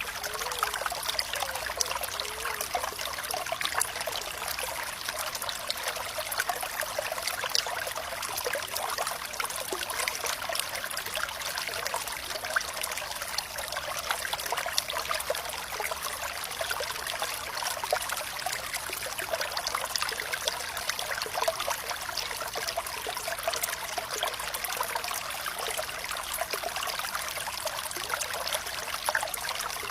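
Water flowing and trickling steadily, full of small splashes and bubbling, with almost no low rumble.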